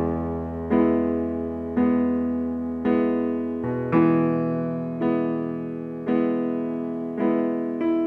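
Piano playing slow, sustained chords, a new chord struck roughly once a second, each ringing and fading before the next.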